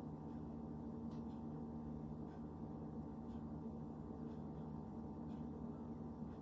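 Steady low room hum made of several held tones, with a faint tick about once a second.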